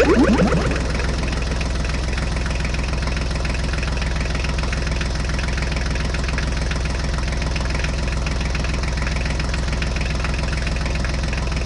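Heavy engine idling steadily with a fast knocking rhythm. In the first second a loud falling whistle-like glide slides down and fades.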